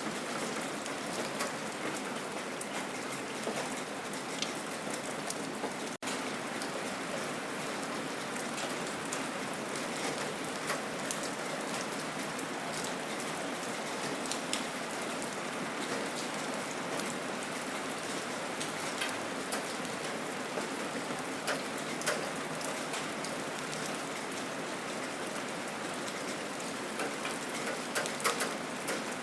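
Gentle rain falling steadily, an even hiss with scattered sharp ticks of single drops striking close by. The sound cuts out for an instant about six seconds in.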